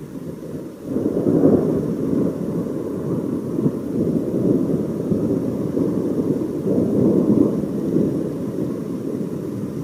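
Thunder rolling: a long, loud rumble that swells about a second in and keeps rolling, with a second surge later on.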